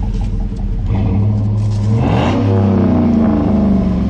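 A big truck's engine idling, then revved about two seconds in, its pitch rising and staying higher and louder.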